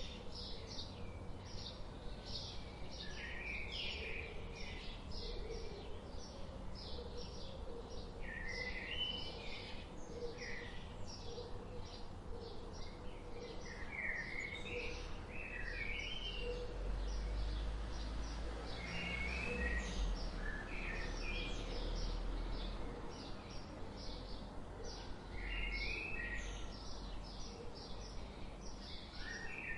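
Several birds chirping and singing: a dense run of short high chirps with repeated warbling phrases, over a steady low background hum. A low rumble swells in the middle and fades.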